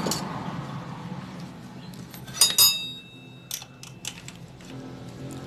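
Metal tools clinking on a motorcycle engine's valve gear while the exhaust valve clearance is adjusted: two sharp, ringing clinks about two and a half seconds in, then a couple of lighter taps.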